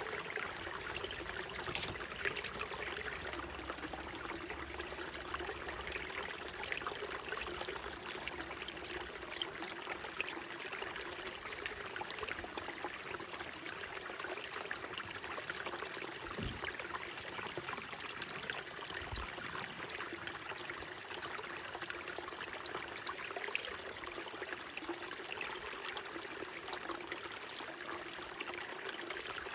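A small mountain stream flowing steadily, a constant rush of water with many small splashes and trickles. Two soft low bumps come a little past the middle.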